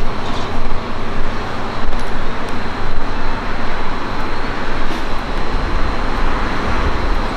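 Steady rumbling train noise at a station, its level rising and falling unevenly, with no distinct horn, bell or announcement.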